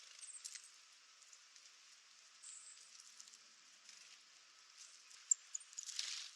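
Faint outdoor ambience: scattered light ticks and rustles with a few very short high chirps, and a brief swell of rustling noise near the end.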